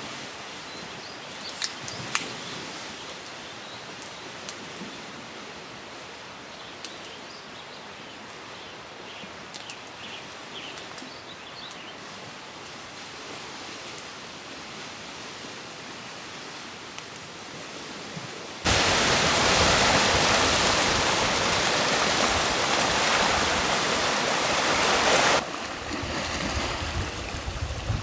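Quiet outdoor ambience with a few faint clicks. About two-thirds of the way in it switches suddenly to a loud, steady rush of running water for several seconds, then drops back to quieter ambience.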